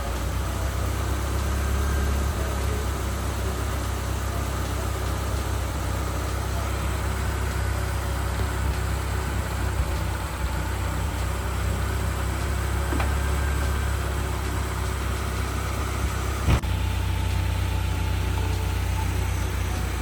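2000 Honda Civic's D16Y8 1.6-litre four-cylinder engine idling steadily, running with engine-flush detergent in its oil. A single sharp click late on.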